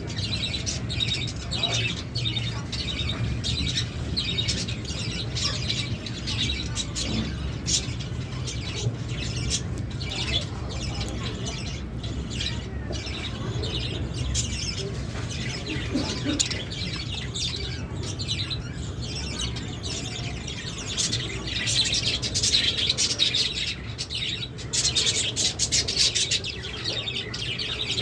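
Lovebirds chirping in many short, rapid calls, growing louder and busier near the end.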